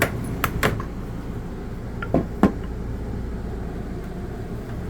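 A few short, sharp knocks and clicks over a steady low hum: two close together near the start, two more about two seconds in, and one near the end.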